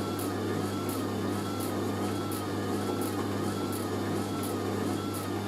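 Hoover A3060 Electronic 1100 washing machine running on its spin cycle with a heavy, unbalanced sofa-throw load. The motor gives a steady hum and a whine that rises and falls in time with the drum, with a faint swish about every 0.7 seconds as the drum turns.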